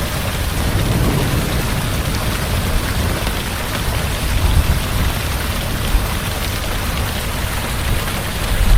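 Heavy rain falling steadily, with low rumbles of thunder swelling about a second in and again around the middle.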